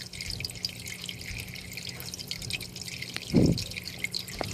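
Water dripping and trickling faintly over a steady low hum, with one dull thump a little past three seconds in.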